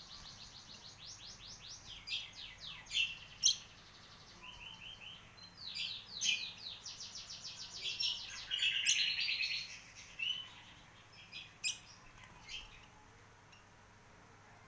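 Kecial kombok nestlings chirping in fast, high trains of short calls, coming in several bouts with pauses between: begging calls at hand-feeding. A few sharp clicks fall between the bouts.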